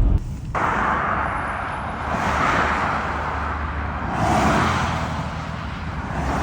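Vehicle driving on a snowy road in a blizzard: a steady hiss of tyres and wind that swells and eases every couple of seconds over a low rumble.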